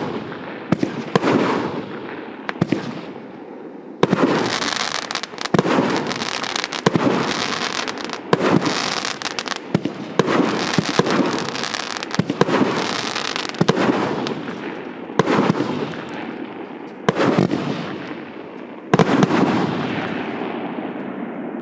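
A 49-shot, 1.2-inch consumer fireworks cake firing in a rapid series: a sharp report every second or so, each followed by a hissing crackle as the stars burn out. The last loud report comes near the end, and the crackle then dies away.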